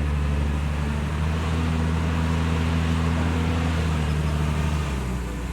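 Heavy construction machine's diesel engine running at a steady speed, a deep even drone that dips briefly near the end.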